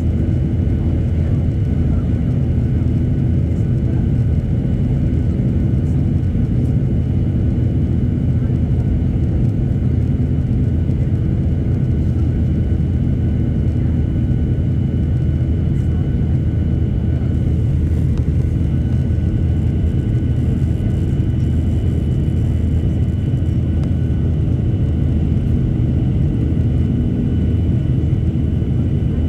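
Boeing 737-800 airliner's CFM56 jet engines running steadily: a constant low roar with faint steady whines above it.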